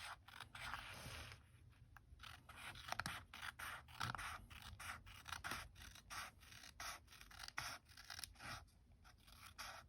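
Scissors trimming patterned paper: many quick, faint snips in an uneven run.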